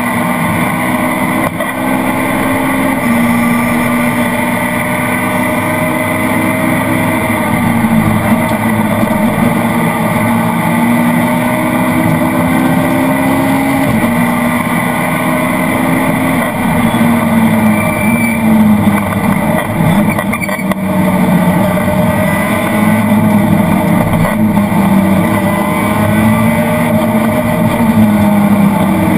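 Citroën Saxo VTS rally car's engine heard from inside the cabin, running hard at stage speed: its pitch climbs steadily, then drops back sharply at gear changes (about 3 and 14 seconds in) and wavers up and down more often as the car lifts and accelerates through the later corners.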